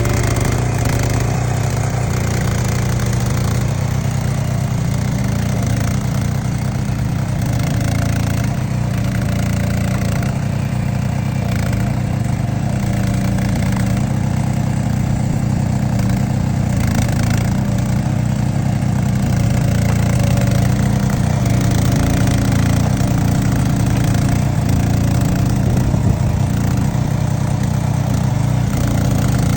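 Engine of a Baumech trench-digging machine running steadily while cutting a cable trench.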